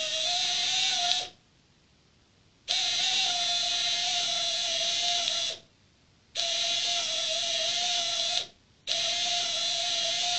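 Small electric windscreen-wiper motor on a scale RC model helicopter running with a steady whine, stopping and restarting three times: about a second in, near the middle and about two-thirds through.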